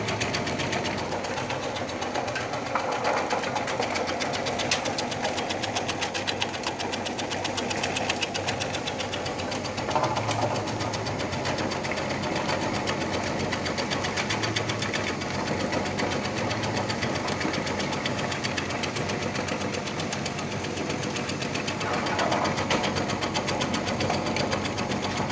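Small motor-driven shallot-slicing machine running steadily with a fast, even mechanical rattle, slicing shallots fed into it.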